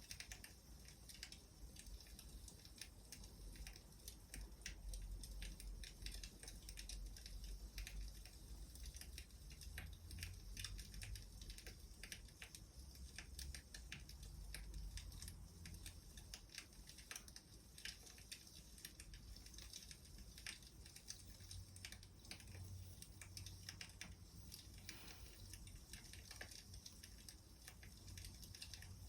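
Faint crackling of a wood fire: irregular small pops and snaps of burning firewood over a low rumble.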